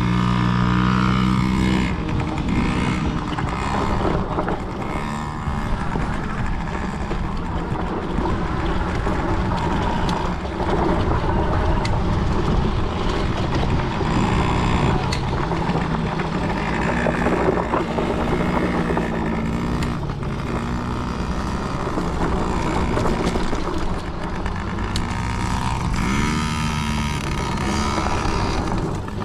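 Kids' dirt bike engines running, with the pitch rising and falling as the throttle is opened and closed.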